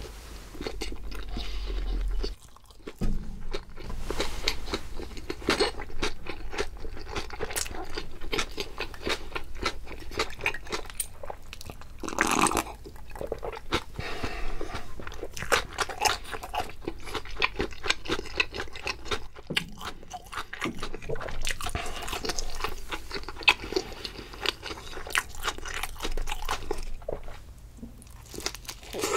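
A person eating close to the microphone: steady chewing with many crunchy bites.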